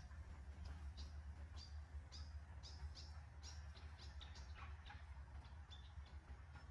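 Faint, rapid series of short, quickly falling chirps, like small birds calling, over a steady low rumble.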